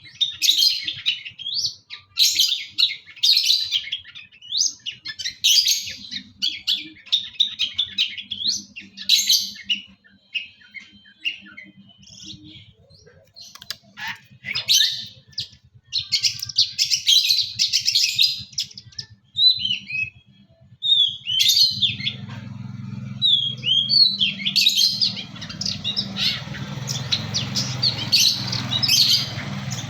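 Long-tailed shrike (pentet) singing in a long run of rapid chirps and short whistles, its song full of mimicked calls. A steady low hum joins about two-thirds of the way in.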